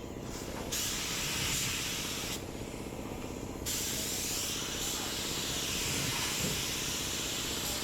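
Compressed air hissing in long blasts, cut off briefly twice, over a steady low hum.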